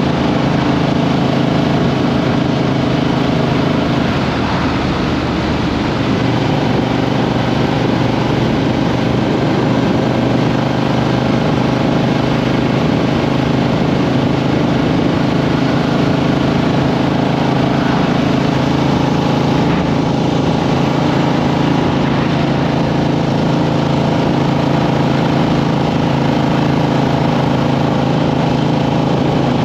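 A Triumph Street Twin's 900 cc parallel-twin engine running under way, picked up close from under the seat. The engine note holds steady, with small rises and falls in pitch as the throttle changes.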